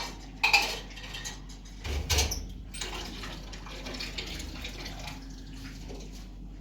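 Household objects being handled: several sharp knocks and clatters in the first two seconds or so, then quieter rustling and handling noise.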